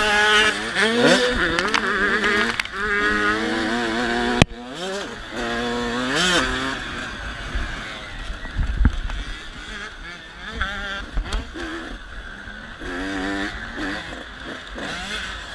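KTM 85 SX two-stroke motocross bike engine revving hard and climbing in pitch again and again as it shifts up through the gears. A sharp click comes about four seconds in; after it the engine is quieter, rising and falling with the throttle.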